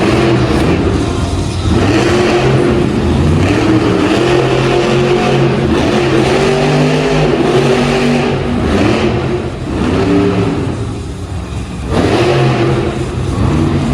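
Monster truck engine revving hard over and over, its pitch climbing and falling again and again. It eases off briefly about ten seconds in, then revs back up.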